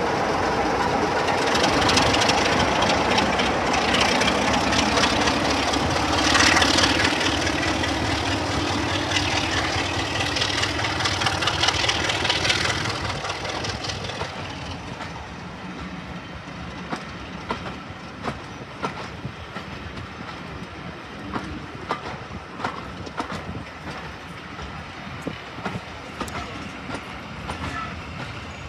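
Diesel locomotive passing, its engine loud at first with the note sliding down as it goes by, then fading after about 13 seconds. The coaches follow, their wheels clicking over the rail joints in a steady clickety-clack.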